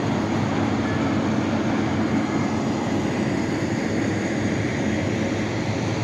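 A steady low rumble of background noise, with no distinct events.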